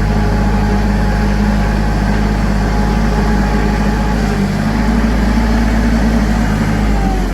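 Tractor engine running steadily at an even speed, a loud, constant low drone.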